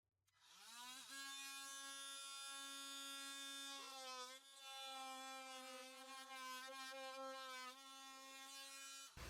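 KIMO 20V cordless oscillating multi-tool with a saw blade cutting through wooden baseboard molding. It is a high buzz that winds up over about a second and then holds steady. It dips in pitch briefly about four seconds in and again near the end, then stops.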